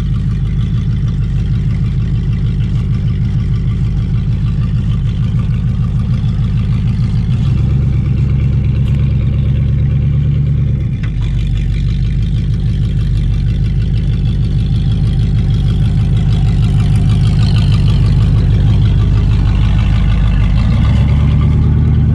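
Truck engine of a 1980 Jeep J10 crew cab running steadily with a regular low pulse, its note shifting a few times as the truck is driven on its first test run.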